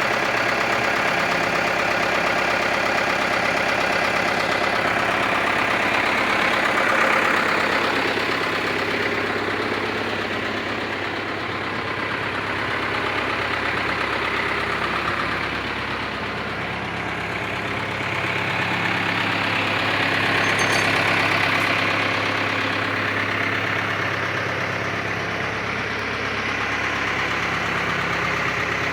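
Case JX95 tractor's diesel engine running steadily at a low, even speed.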